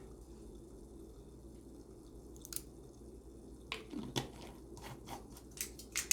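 Close-miked chewing of crisp salad: a few sharp crunches from about the middle on, over a faint steady hum.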